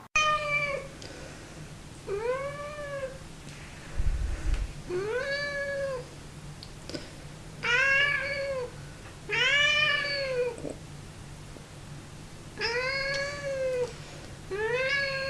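Domestic cat meowing repeatedly: seven drawn-out meows about two seconds apart, each rising and then falling in pitch.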